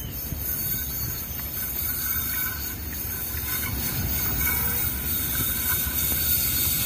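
Diesel-electric locomotive hauling a passenger train as it approaches. A low engine and rail rumble grows steadily louder, with faint high wheel squeal at times.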